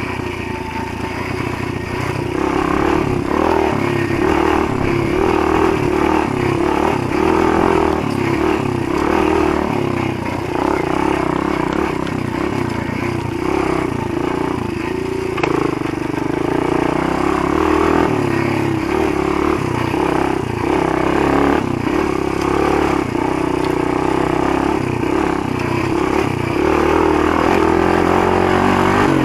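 Motoland GF125 E pit bike's 125 cc single-cylinder four-stroke engine running under load while riding, its note mostly steady with a few brief dips as the throttle eases.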